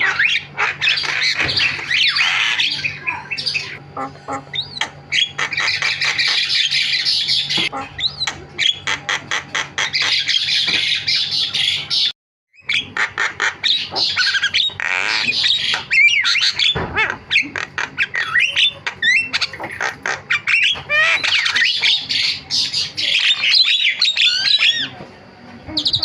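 Javan myna chattering continuously in rapid strings of harsh squawks, clicks and short whistled notes. The sound cuts out completely for a moment about twelve seconds in.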